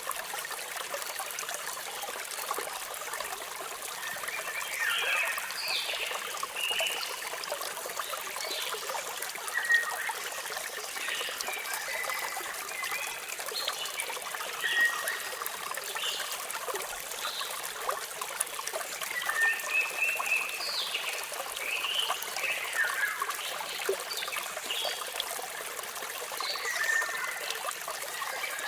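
Waterfall water running and splashing steadily, with birds chirping in many short, scattered calls over it.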